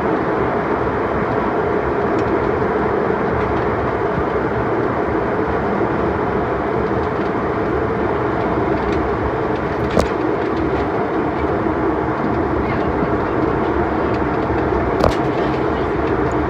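Steady roar of an airliner heard from inside the passenger cabin, the engines and rushing air running without a break, with a sharp knock about ten seconds in and another about fifteen seconds in.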